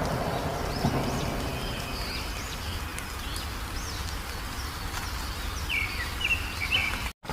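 Wild birds chirping: many short, quick calls that sweep up and down in pitch, over a steady low background rumble. The sound cuts out completely for a moment just before the end.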